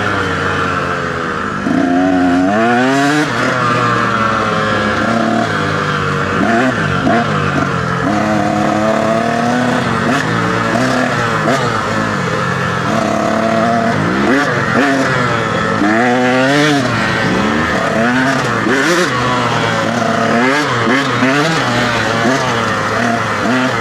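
Dirt bike engine being ridden hard, its pitch climbing and falling again and again as the throttle is opened and closed through the gears, over wind and tyre noise.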